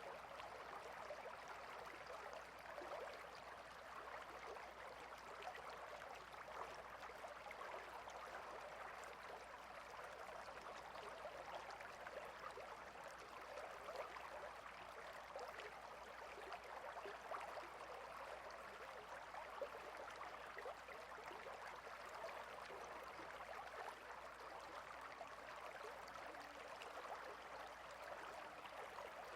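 A small stream babbling and trickling steadily, heard faintly.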